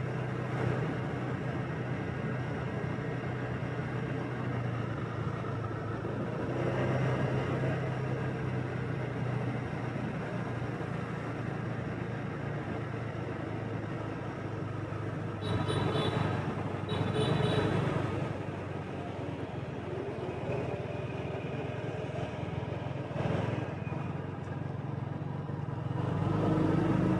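Street traffic heard from a moving motorbike: a steady hum of engines and tyres, with passing vehicles swelling louder now and then. Two short high beeps sound a little past halfway.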